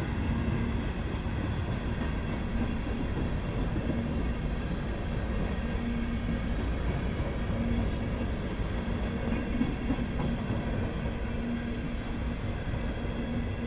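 Freight cars of a BNSF manifest train rolling past, a steady rumble of steel wheels on the rails.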